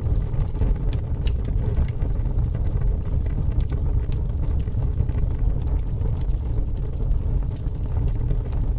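Fire burning: a steady low rumble of flames with scattered sharp crackles and pops.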